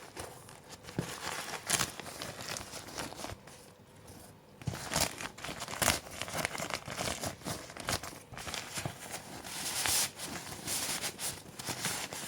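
Synthetic fabric and packaging of a Helikon Swagman Roll poncho liner rustling and crinkling as it is unpacked and unfolded by hand, with a few sharper crackles.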